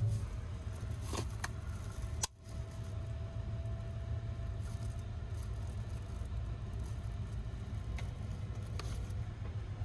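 Steady low rumble of a 285 series electric sleeper train running, heard from inside the compartment. It drops out briefly about two seconds in, and there are a few light clicks near the end.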